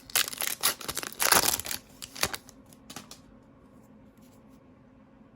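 Foil trading-card pack being torn open and crinkled, with the crackle dying away about three seconds in.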